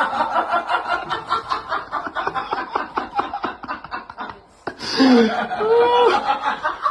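A person laughing in a rapid run of snickering chuckles for about four and a half seconds. After a brief break, a pitched, voice-like sound comes in with its pitch sliding up and down.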